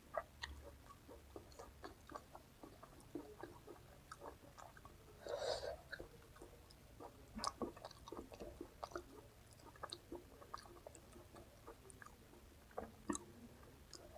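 A person chewing food close to the microphone: many small wet mouth clicks, with one louder noise lasting about half a second about five seconds in.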